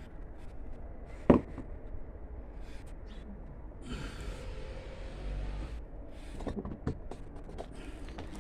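Hands sifting through potting soil in a tub while searching for potatoes: scattered small clicks and rustles, one sharp knock about a second in, and a longer rustling hiss from about four to six seconds in.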